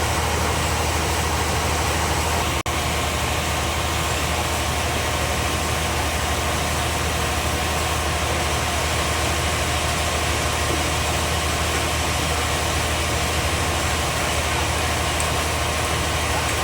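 Band sawmill machinery running steadily with a low hum and even noise, cut off for an instant a few seconds in.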